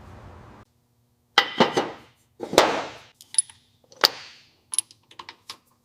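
Metal tools and parts clanking and clinking in a workshop: a few sharp, loud clanks with brief ringing, then a scatter of lighter clicks.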